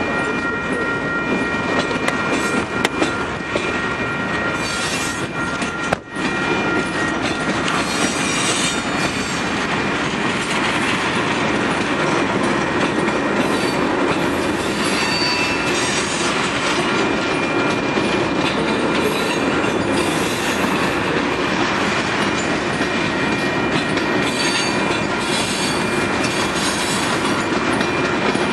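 Loaded tank cars of a freight train rolling past, steel wheels clattering steadily over the rails. Thin, high wheel-squeal tones run through the first dozen seconds or so.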